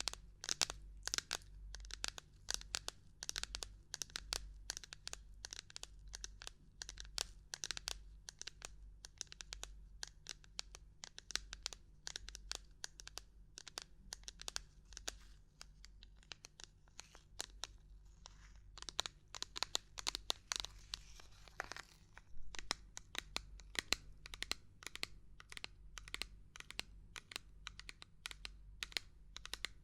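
Irregular ASMR tapping and knocking on assorted objects: a fast, uneven stream of sharp clicks and taps, with a stretch of scratchy rustling about two-thirds of the way through.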